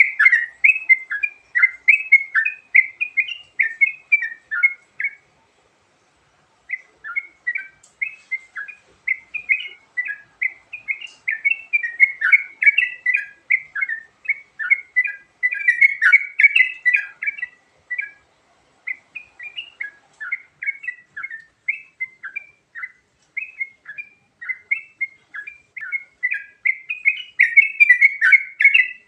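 Yellow-vented bulbul (trucukan) singing a long varied song of quick chirped notes, with short pauses about five and eighteen seconds in.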